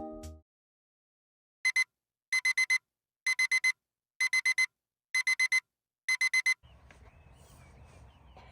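Digital alarm clock beeping: quick groups of four high electronic beeps repeating about once a second, then cutting off suddenly; faint outdoor ambience follows.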